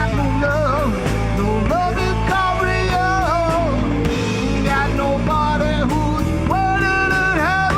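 Rock band playing live: a lead melody with bent, wavering notes over steady bass and drums.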